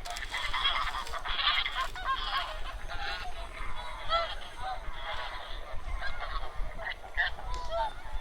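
A flock of wild geese calling: many short honking calls overlapping in a continuous chorus.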